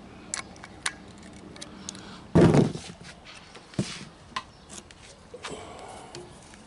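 Hand tools on small metal screws and the stator housing of a 110cc engine: scattered light clicks and clinks as the stator screws are snugged tight, with one louder clunk-and-scrape about two and a half seconds in.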